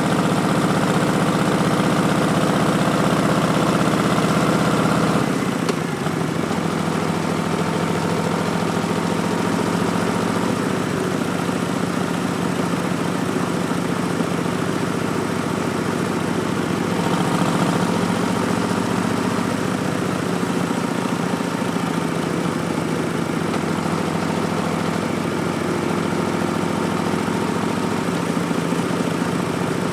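2019 Harley-Davidson Street Bob's Milwaukee-Eight 107 V-twin running through Vance & Hines Twin Slash slip-on mufflers, a steady engine note under way. About five seconds in the note drops suddenly, then carries on steadily with a slight swell partway through.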